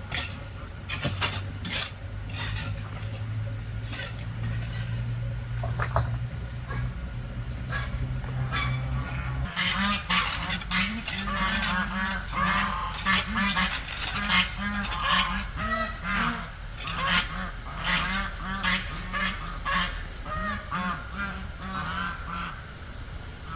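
Domestic geese honking, many short repeated calls coming in quick succession from about ten seconds in. Before that, a steady low hum with scattered clicks stops suddenly.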